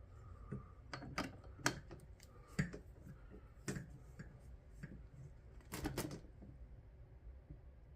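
Scattered sharp clicks and metallic taps of a wrench, torque adapter and 5/16 Allen socket being worked on the bolts of a pedal-kayak drive's arms, retightened to 26 foot-pounds to cure a clicking noise from loose arms.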